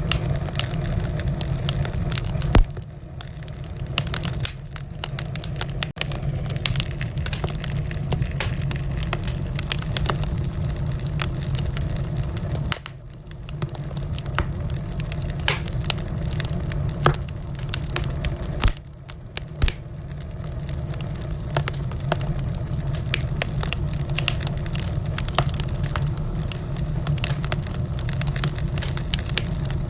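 Wood fire burning in a fireplace: a steady low rumble of flames, with constant irregular crackling and a few louder sharp pops.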